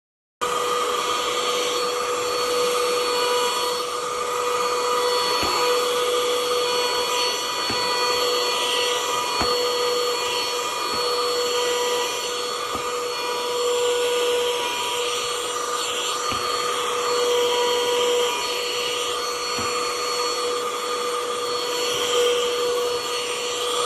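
Bissell AeroSlim lithium-ion cordless handheld vacuum running steadily, a whine over a hiss of rushing air.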